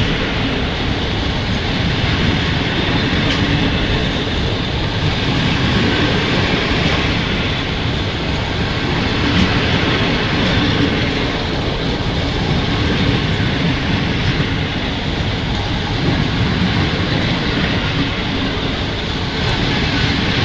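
PKP Intercity passenger coaches rolling past at close range as the train runs into the station: a loud, steady rumble of steel wheels on rail, with a few faint clicks.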